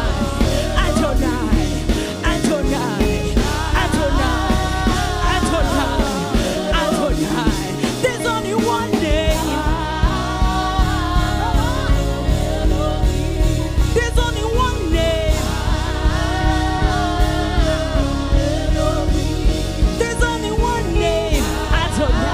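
Gospel worship music: a singer's voice over a full band with a steady drum beat.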